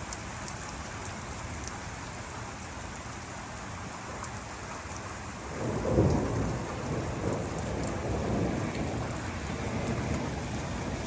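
Steady rain falling, with a clap of thunder about halfway through that rumbles on to the end.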